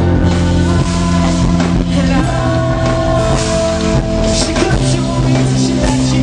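A rock band playing live, with singing over distorted guitars, bass and a drum kit.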